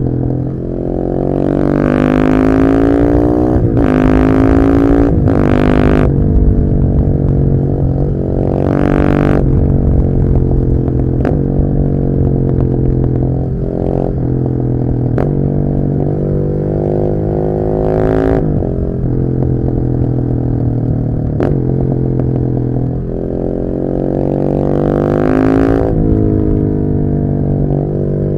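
KTM 690 SMC R supermoto's single-cylinder engine being ridden, revs climbing hard and dropping again several times as it accelerates and shifts gears, with stretches of steadier running and slowing in between.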